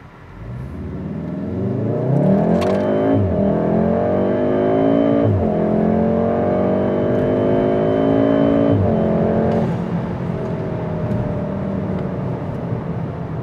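Volkswagen Golf R's turbocharged four-cylinder engine under full-throttle acceleration, heard from inside the cabin. The pitch climbs with the revs, drops sharply three times as it shifts up through the gears, then the throttle lifts near ten seconds in and the engine settles to a steadier cruise.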